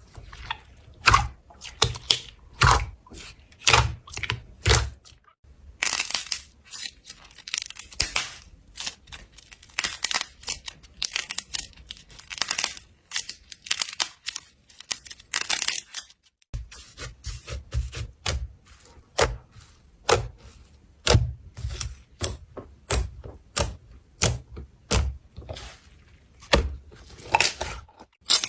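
Slime being squished and worked by hand, giving irregular sharp crackles and pops, several a second.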